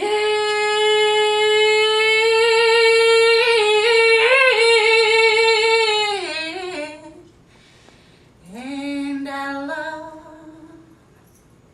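A voice holding one long high note for about six seconds, wavering slightly before it falls away, then a shorter note that slides upward and holds.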